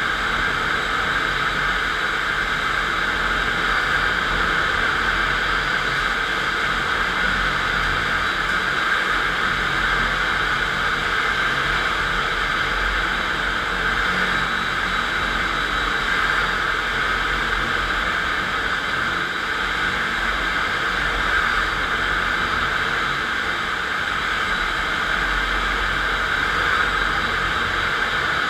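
FastPrep concrete floor grinder running steadily, grinding a concrete floor with 16-grit diamond grinding plates: an even, unbroken noise with no pauses.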